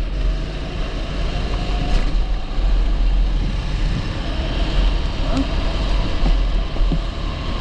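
A TB rental kart's 270cc engine running steadily on track, heard onboard.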